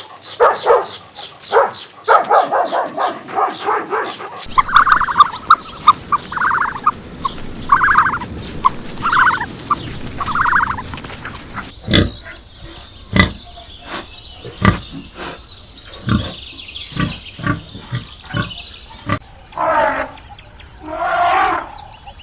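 A string of different animal calls with abrupt changes between them. First come rapid short calls. About four seconds in, repeated calls begin, roughly one a second. About twelve seconds in they give way to a run of sharp clicks or grunts, and near the end come a few longer calls.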